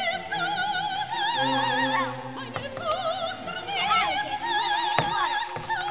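Operatic singing: a high voice holds long notes with a wide, even vibrato, gliding between pitches. A single sharp click comes about five seconds in.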